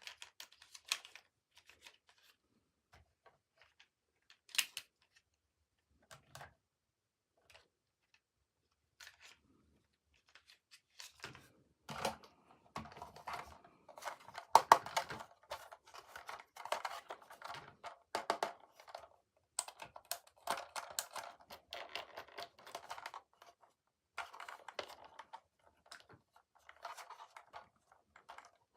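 Toy packaging being opened and handled by hand: scattered small clicks and rustles at first, then from about eleven seconds a busy, irregular run of rustling and scraping.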